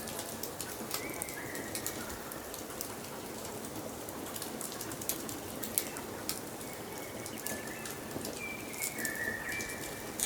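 Wood fire crackling steadily with many sharp pops, with birds whistling short, stepped notes in the background about a second in and again near the end.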